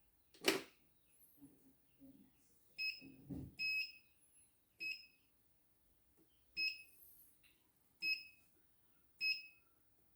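Computerised embroidery machine's control panel giving short electronic beeps, one at a time at irregular intervals, as its buttons are pressed, with a sharp click about half a second in.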